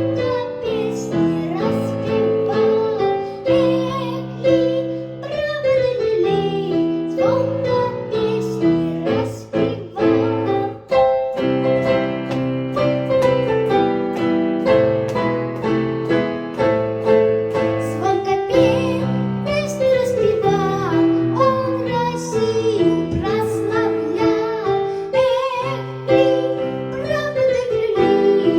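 A young boy singing a Russian folk soldiers' marching song with a piano accompaniment.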